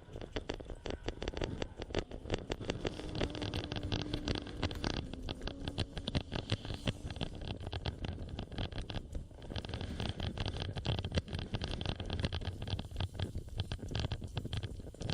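Meat grilling over a fire pit under a closed lid: a dense, irregular crackling and spitting of fat on the fire, with a low rumble underneath.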